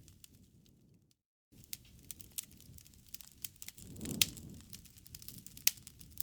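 Campfire crackling, with sharp pops scattered over a low rumble of burning. The sound cuts out completely for a moment about a second in, and the loudest pops come about four and about five and a half seconds in.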